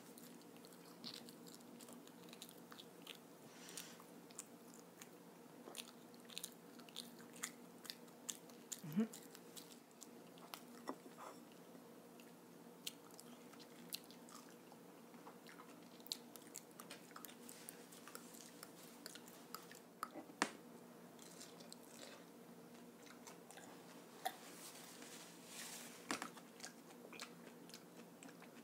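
A child eating French toast with her mouth open, chewing and smacking, heard close to the microphone as many scattered small wet clicks. A faint steady hum lies underneath.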